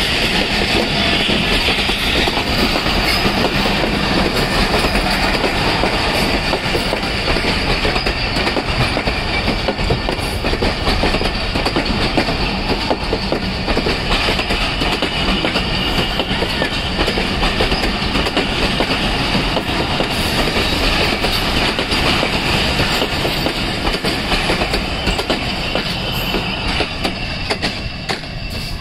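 Passenger express train rolling past close by, its wheels clattering over the rail joints, with a steady high squeal. It eases off near the end.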